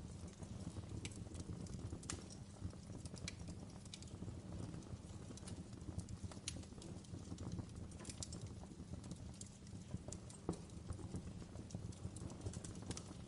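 Wood fire crackling in a fireplace: irregular sharp snaps and pops, several a second, over a steady low rumble of the burning fire.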